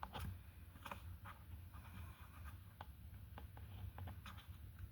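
Quiet room tone: a steady low hum with faint, scattered small clicks and rustles.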